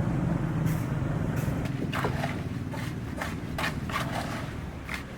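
A motor vehicle's engine running steadily, with a string of short scrapes or knocks starting about two seconds in.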